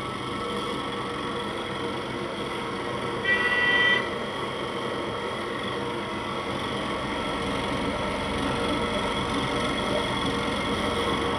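Ceiling fan motor running with a steady hum-whine made of several fixed tones. A short honk-like tone sounds about three seconds in.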